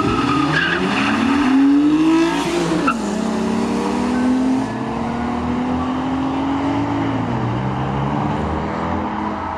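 A car engine under hard acceleration in a race. It revs rising for about two and a half seconds, drops sharply at a gear change around three seconds in, and pulls at a nearly steady pitch until it falls away as the throttle lifts about seven seconds in.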